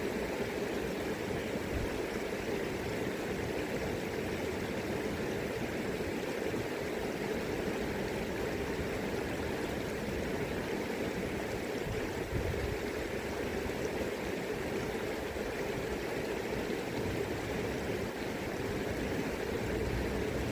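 River current rushing steadily, with irregular low rumbles of wind on the microphone.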